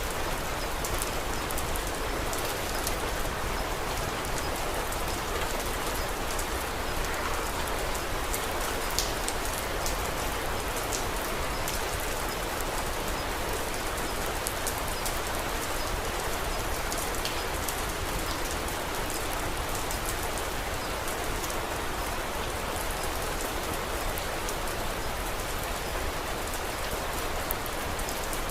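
Steady rain falling and pattering on surfaces, with many small sharp drop ticks scattered through it.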